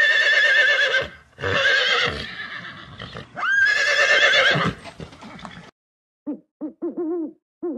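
A horse whinnying three times, long quavering neighs. Near the end, an owl gives a quick series of short, deep hoots.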